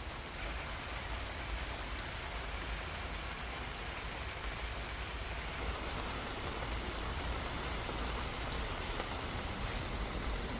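Steady rain falling, with a low rumble underneath that grows louder toward the end.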